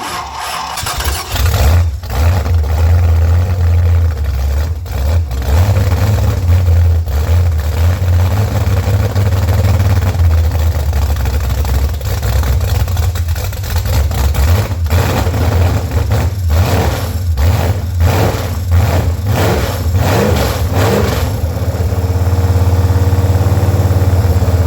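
Freshly built Ford 351 Windsor small-block V8 on an engine stand catches and runs, with the sound building over the first second or two. It runs unevenly with surges through the middle, running rough on fuel fed to it by hand.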